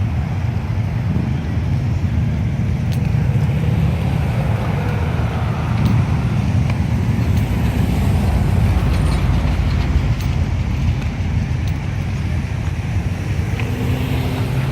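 Motorcycle engines running together, a steady low rumble.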